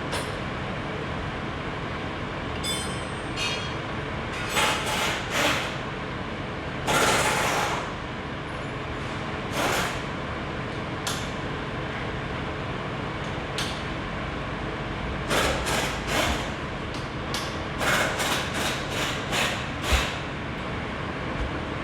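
Metal tools and parts clanking and knocking at irregular intervals, a few strikes ringing briefly and one longer scrape, over a steady mechanical hum.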